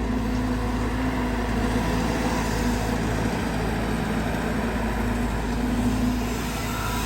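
Caterpillar 320GX excavator's C4.4 four-cylinder diesel engine and hydraulic pump running steadily, a deep engine hum under a dense mechanical noise with a faint whine.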